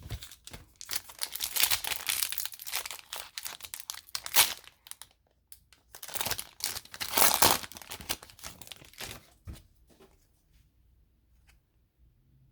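Hockey card pack wrapper being torn open and crinkled by hand, in two bursts of crackling rustle with a short pause between, then faint handling.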